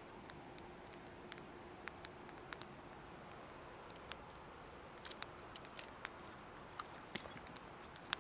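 Wood fire crackling: scattered sharp snaps and pops at uneven intervals over a faint steady hiss.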